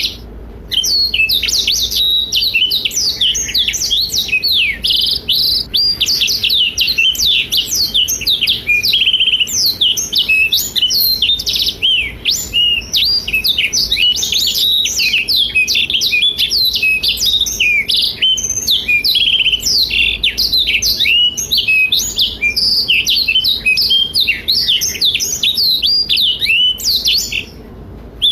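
Black-throated canary (blackthroat) singing a long, fast, unbroken warbling song of rapid high twitters and trills. The song breaks off briefly just after the start and again about a second before the end.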